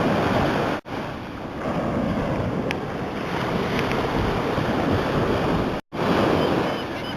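Steady rushing outdoor noise of wind and surf. It cuts out briefly twice, about a second in and near the end.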